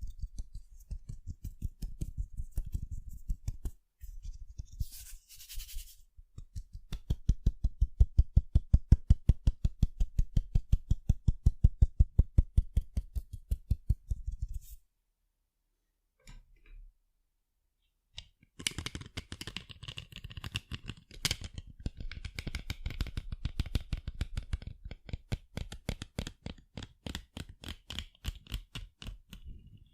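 Rapid tapping on sunglasses: a fast, even patter of short clicks, several a second. It stops for a few seconds past the middle, then resumes sharper and brighter.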